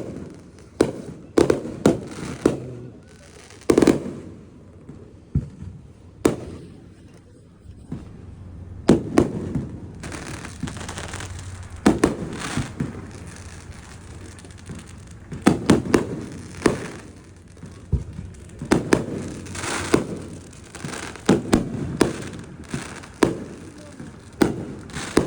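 Fireworks display: a long, irregular series of sharp bangs from bursting shells, thinning out a few seconds in, then picking up again over a steady hiss.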